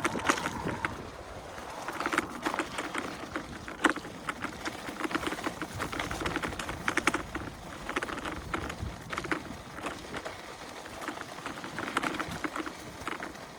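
Irregular crunching and crackling as an electric unicycle rolls along a narrow dirt single-track through dry brush, with a low wind rumble on the microphone.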